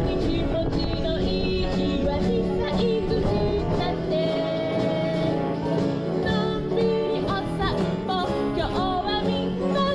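Live pop music from an acoustic guitar with a sung melody, played outdoors. A steady low rumble of strong wind on the microphone runs underneath.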